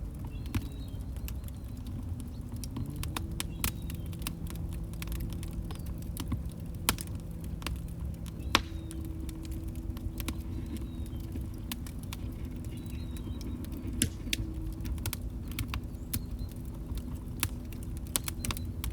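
Wood log fire crackling: a steady low rumble of burning with constant small crackles and a few louder sharp pops, and a faint low hum underneath.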